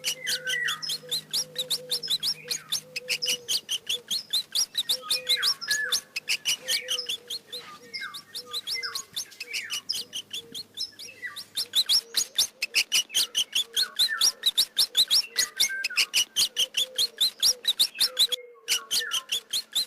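Mouse squeaking: a fast run of short, high-pitched chirps, about five a second, with a brief break near the end.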